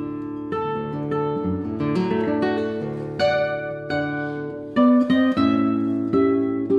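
Acoustic guitar music: plucked and strummed chords, a new chord or note struck about every half second.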